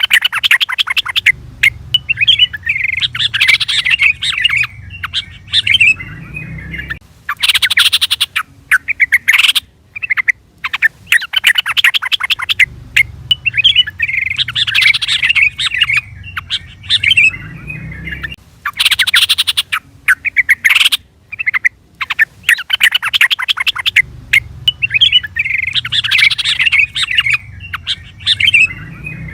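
Yellow-vented bulbul (trucukan) calling: loud, rapid chattering notes and chirps. The same sequence repeats about every 11 to 12 seconds, as a looped call recording.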